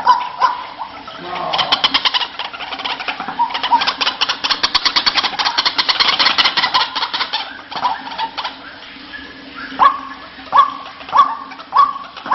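White-breasted waterhen (ruak-ruak) calls played as a bird lure: a fast rattling run of repeated notes for several seconds, then a series of short rising calls, a little under two a second, near the end.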